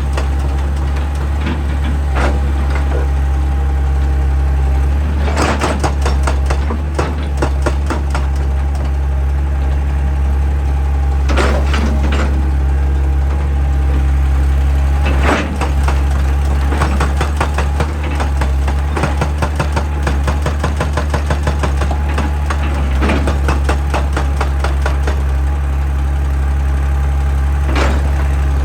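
A heavy excavator's diesel engine runs steadily with a low hum. Several bursts of rapid, evenly repeated hard impacts come from its hydraulic rock breaker hammering on rock, a few seconds apart.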